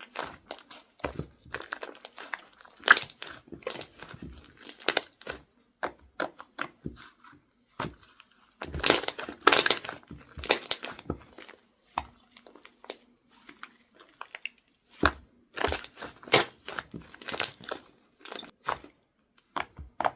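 Slime being pressed and squished by hand, making an irregular run of crackles, clicks and small pops. The crackling is densest about nine to eleven seconds in and again around fifteen to eighteen seconds in.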